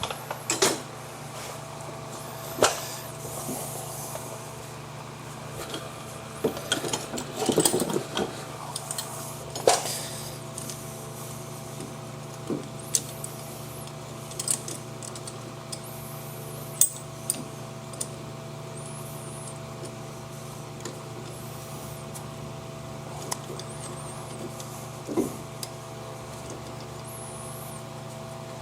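Scattered metallic clicks, clinks and knocks from brake pads, caliper hardware and hand tools being handled, with a cluster of knocks about a quarter of the way in. A steady low hum sounds underneath throughout.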